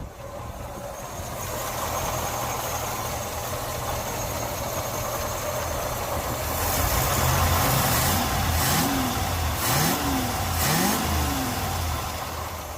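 1948 Ford F5 bus engine running on fuel from its own gas tank, getting louder past the middle and revved up and back down three times in quick succession near the end.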